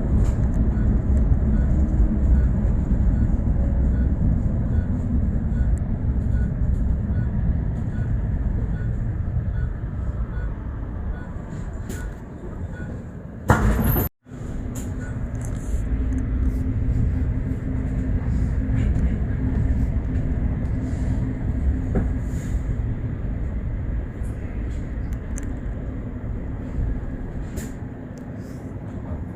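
A bus on the move, heard from inside: steady low engine and road rumble. A faint regular ticking, about three ticks a second, runs for the first twelve seconds; about halfway through comes a brief loud noise and the sound drops out for a moment before the rumble resumes with a steady low hum.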